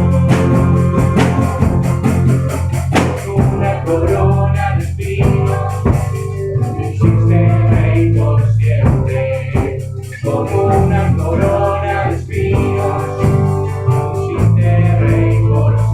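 A Christian worship song played by a band with drums and guitar over a steady beat.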